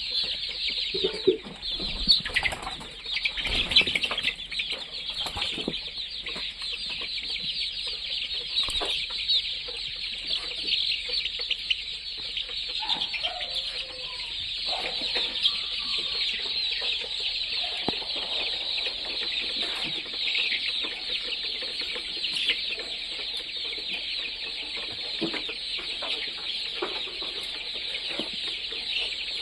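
A large flock of chickens calling without pause, a dense high chirping and clucking, with wing flapping and a few louder knocks in the first few seconds.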